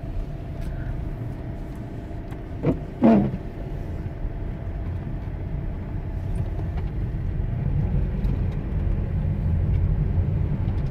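Jeep Compass driving slowly on an icy road: a steady low rumble of engine and tyres that grows a little louder in the second half. There are two short, louder sounds about three seconds in.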